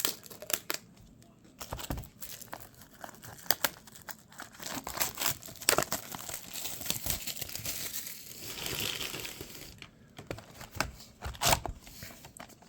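Plastic wrapping on a box of baseball cards being torn open and crinkled by hand, a run of crackling rustles and tears.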